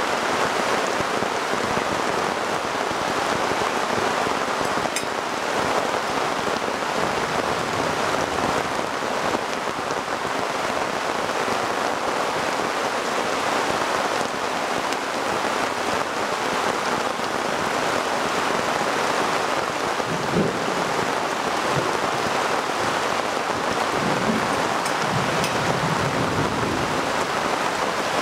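Heavy rain pouring down steadily, with a couple of low rumbles about two-thirds of the way in and near the end.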